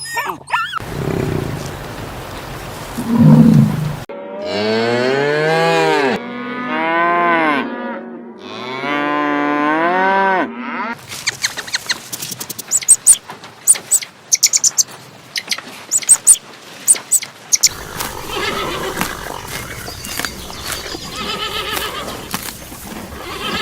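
Animal calls: three long calls in a row, each rising and falling in pitch, then a stretch of sharp clicks and high chirps, then a rougher call near the end.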